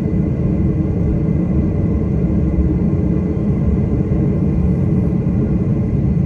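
Airliner cabin noise heard from inside the plane: engines and airflow make a steady low rumble, with a faint steady high whine above it.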